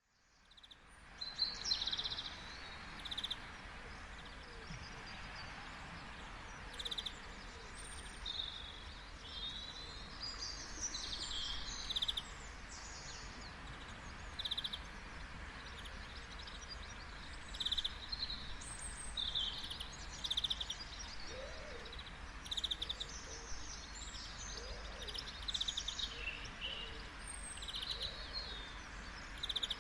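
Many small birds chirping and calling again and again over a steady hiss of outdoor background noise that fades in over the first second or so.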